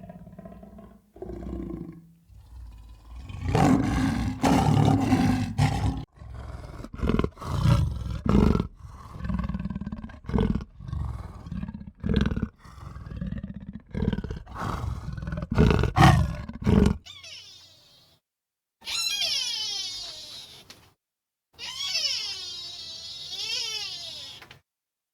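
A wild animal giving a series of deep, rough roaring calls in quick succession. After a sudden break there are high, wavering, squealing calls that rise and fall in pitch.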